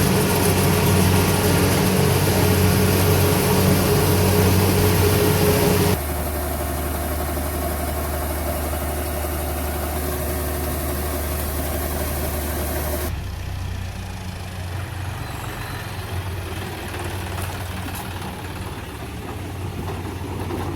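Diesel engines of farm machinery running steadily, heard as three stretches that switch abruptly about six seconds and thirteen seconds in, the first the loudest.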